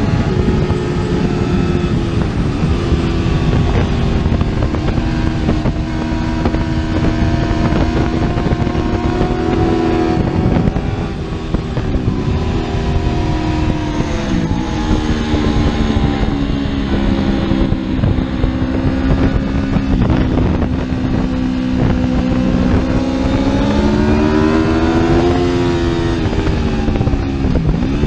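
Superbike engine running hard at speed, its pitch holding fairly level with a few brief dips and swelling up and back down near the end, over heavy wind rumble on the microphone.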